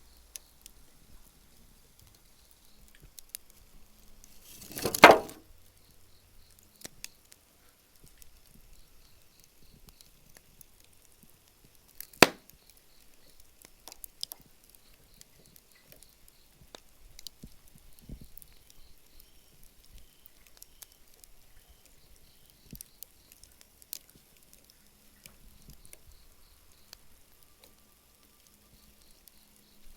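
Wood campfire crackling with scattered small pops, a loud burst about five seconds in and a single sharp crack about twelve seconds in.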